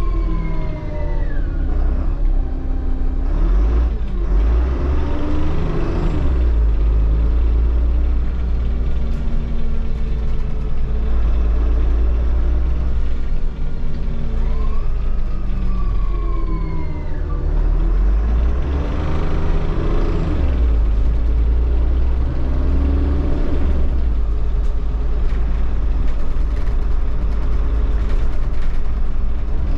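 Solaris Urbino 15 bus under way: the engine's steady low rumble with the whine of its Voith automatic gearbox, which glides down in pitch near the start and again about halfway through as the bus slows and changes speed.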